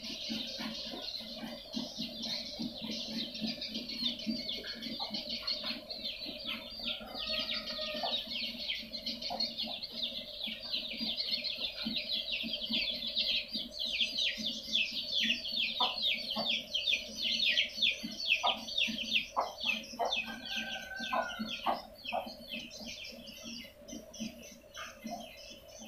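Swiftlet lure-call recording: many swiftlets twittering at once in dense, rapid trains of short high chirps, with a steady low tone underneath.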